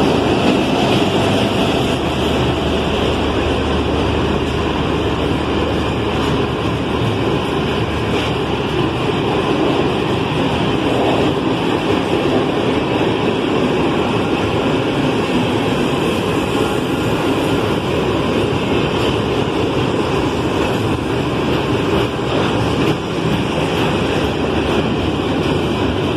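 Freight train passing at close range: a diesel locomotive's engine hum fades in the first couple of seconds, leaving the steady rumble of loaded hopper wagons' wheels rolling on the rails.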